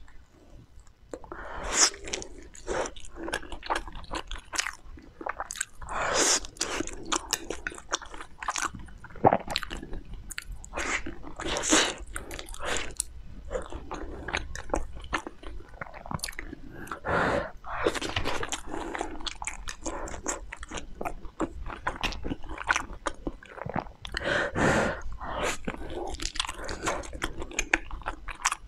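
Close-miked chewing and biting of soft, sticky pearl-coated rice balls: wet mouth sounds with many brief, irregular clicks and smacks.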